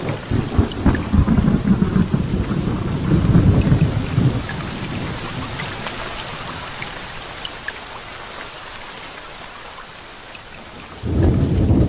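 Thunderstorm: steady rain with a long roll of thunder that fades away over the first few seconds, then a new thunderclap breaks in suddenly near the end.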